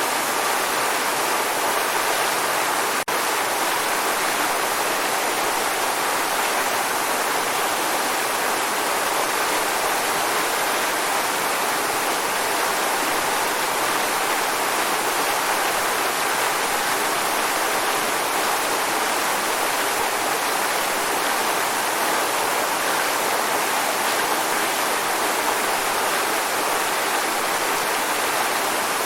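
Waterfall: a steady, even rush of falling water. It drops out for an instant about three seconds in.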